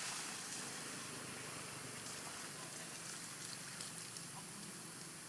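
Pond water splashing and dripping: a steady hiss with a few small scattered ticks.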